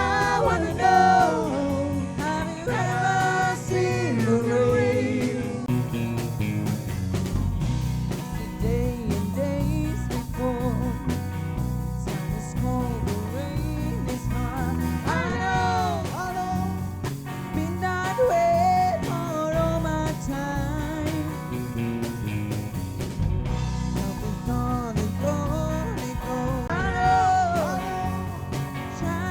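A live band playing a rock song: a male or female lead vocal sung over electric and acoustic guitars and a steady bass line with a regular beat.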